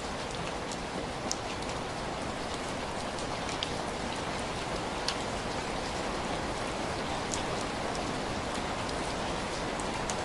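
Steady rain falling, an even hiss with scattered sharp ticks of individual drops, a few louder than the rest.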